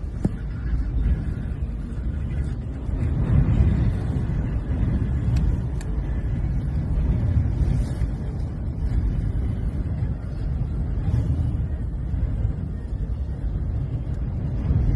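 Strong wind buffeting the microphone: a gusting, uneven low rumble, with a stronger gust about three seconds in.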